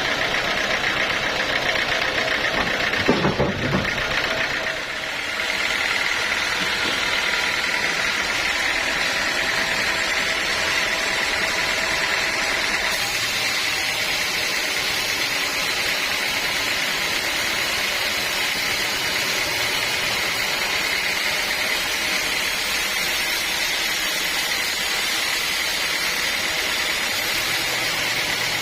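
Sawmill machinery running steadily, with a brief low rumble about three seconds in.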